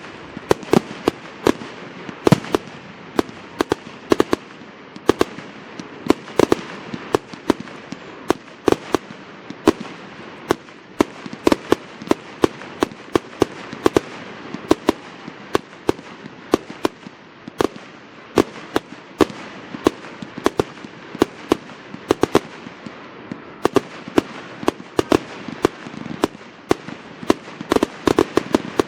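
Fireworks display going off in a dense barrage: many sharp bangs, several a second, over a steady crackle.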